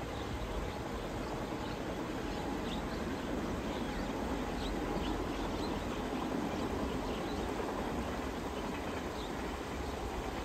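Distant Chu-kuang Express passenger train, an electric locomotive hauling coaches, running across a rail bridge: a steady low rumble of wheels on track that swells a little towards the middle and then eases. Faint short bird chirps sound above it now and then.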